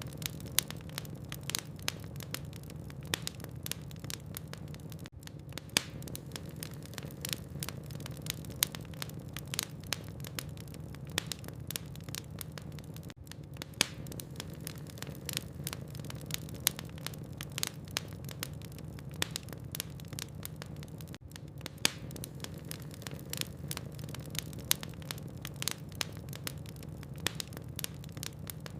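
Burning logs in a fireplace crackling, with frequent irregular sharp pops over a steady low hum. A brief dip in the sound recurs about every eight seconds.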